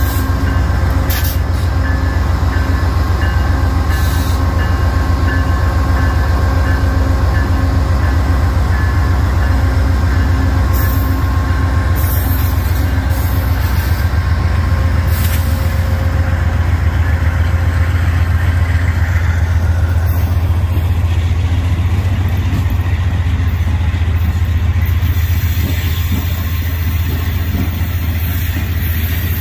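Freight train rolling past, a loud steady low rumble from the train on the rails that eases slightly near the end.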